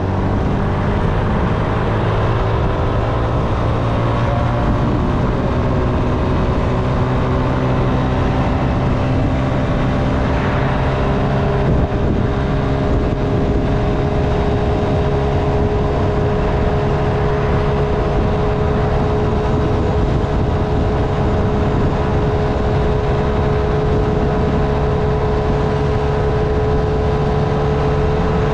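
Honda Navi's small single-cylinder engine running under way at a steady cruise. Its pitch rises a little over the first few seconds and then holds steady, over a constant low rumble.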